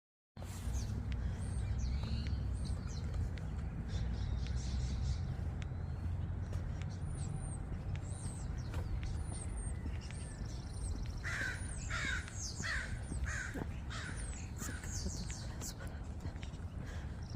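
Dawn birdsong: many small birds' short, high chirps throughout, with a run of about five loud, harsh calls a little past the middle, over a steady low rumble.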